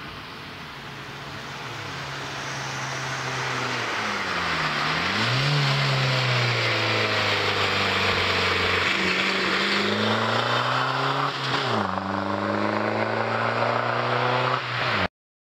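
Volkswagen TDI diesel with an Edel01 turbo-back exhaust pulling under load, getting louder over the first few seconds. The engine note drops sharply and climbs again twice, about four and a half and eleven and a half seconds in, like gear changes. The sound cuts off abruptly near the end.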